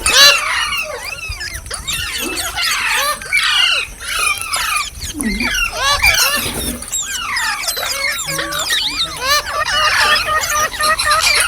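Indian ringneck parakeet calling: a fast run of high-pitched chattering squeaks and whistles, many short notes sweeping up and down and overlapping one another.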